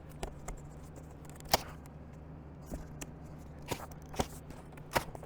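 Hand staple gun firing staples through cardboard into a wooden target-backer frame: about five sharp snapping clicks, irregularly spaced, with cardboard rustling between them over a low steady hum.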